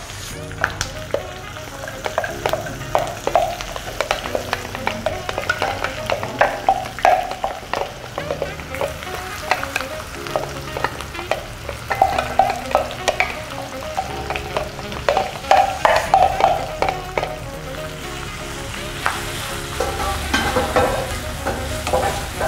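Lemongrass, kaffir lime leaves and a blended chili spice paste sizzling in hot oil in a non-stick wok, with many short scrapes and taps as a wooden spatula stirs them around the pan.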